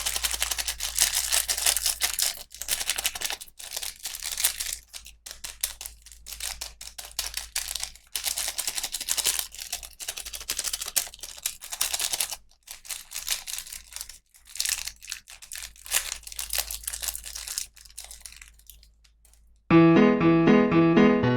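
Plastic toy packaging crinkling and tearing in quick irregular bursts as it is unboxed by hand, fading out near the end. Electric piano music starts just before the end.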